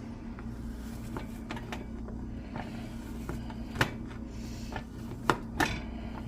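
Knife knocking on a cutting board while chopping partly thawed plant-based chicken strips into chunks: scattered sharp knocks, the loudest near the middle and two more close together near the end, over a steady low hum.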